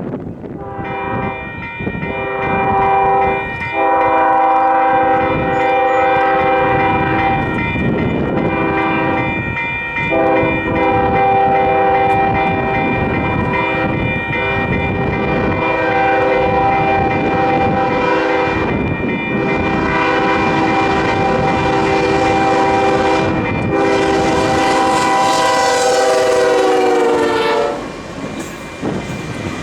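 Union Pacific locomotive multi-chime air horn blowing a chord in long blasts with a few short breaks. Its pitch drops as it passes, and it stops about two seconds before the end. Beneath it runs a rough rumble of the passing train and wind on the microphone.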